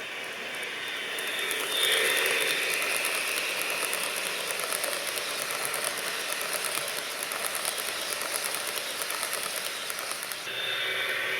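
HO scale model train, a GP40-2 diesel locomotive pulling cars, running along the track: a steady mechanical whir with rapid fine clicking. It grows louder about two seconds in and drops off near the end.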